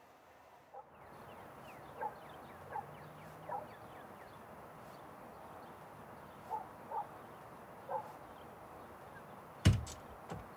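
Quiet outdoor ambience with a bird calling in short falling chirps, several times over a few seconds. Near the end a front door bangs sharply as it is opened.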